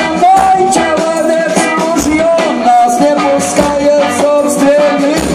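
Live band playing an instrumental break in a Yiddish-punk song: a lead melody line over chords and a steady beat.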